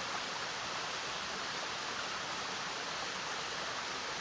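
Steady rush of a small waterfall, water falling into its pool.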